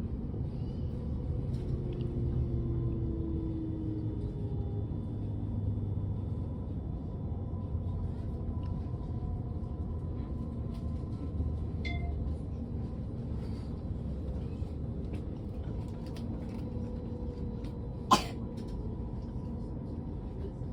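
Passenger train running, heard from inside the carriage as a steady low rumble, with a single short sharp knock about eighteen seconds in.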